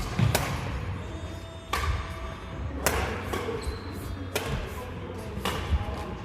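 Racket hits in a men's doubles rally, a sharp strike roughly every second, back and forth.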